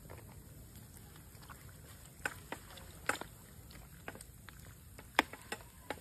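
Wood campfire crackling, with a steady low rumble and a scattering of sharp, irregular pops from about two seconds in, the loudest just after five seconds.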